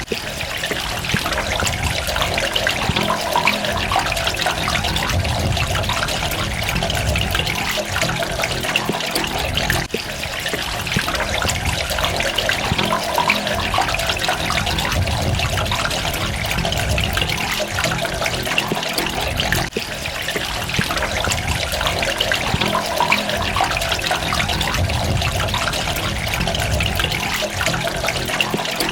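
Water running and trickling steadily, with a deeper rumble underneath that swells and fades.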